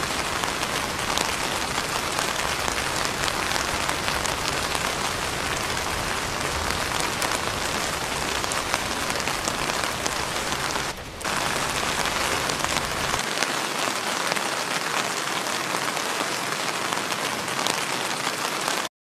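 Steady heavy rain falling on a surface, a dense even hiss thick with pattering drops. It dips briefly about eleven seconds in and cuts off suddenly just before the end.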